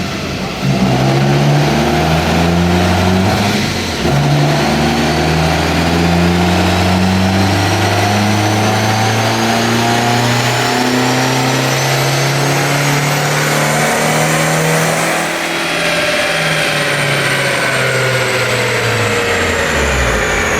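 Big-turbo Hyundai Elantra's four-cylinder engine on a chassis dyno, revving up under load for about fifteen seconds with a thin whine climbing alongside, then winding down near the end. On these pulls it builds only about 1 psi of boost, which turned out to be a leaking blow-off valve.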